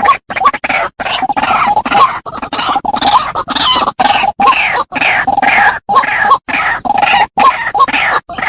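White-breasted waterhen (ruak-ruak) calling: a fast, unbroken run of harsh, croaking notes, about two or three a second, loud throughout. The notes are broken by short gaps that start and stop abruptly, as in a looped lure recording.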